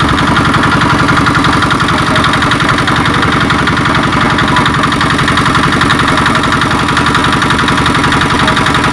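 Engine running steadily at a constant speed with a fast, even pulse.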